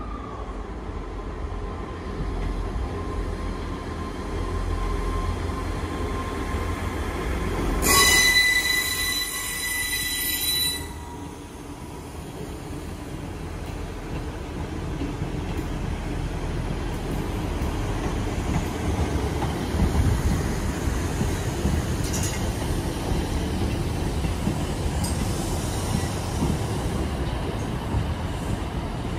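Northern Class 158 and Class 156 diesel multiple units running into the platform, with a steady low rumble. A loud high-pitched wheel squeal starts about eight seconds in and cuts off about three seconds later.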